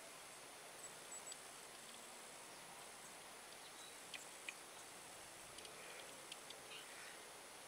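Near silence: a faint outdoor background with a few soft, short, high chirps or ticks in the second half, typical of small birds.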